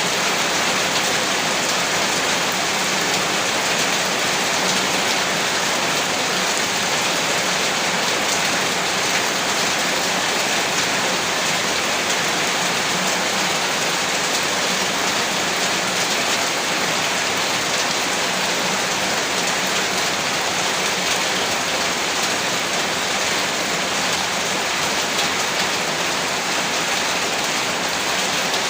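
Heavy rain falling steadily, a dense even hiss of drops on a roof with no breaks or thunder.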